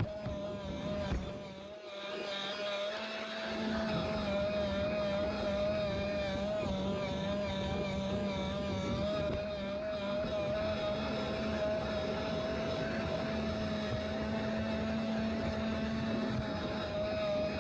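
Electric model train running on its track: a steady, slightly wavering motor whine, with the lower hum and overall level dipping briefly about two seconds in.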